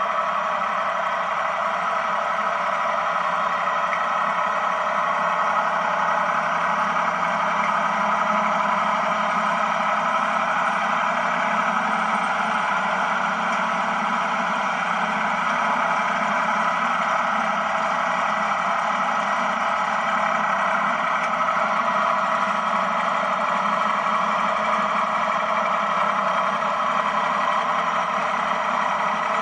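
Ford tractor engine running at a steady speed while powering a Ford 501 sickle bar mower cutting hay.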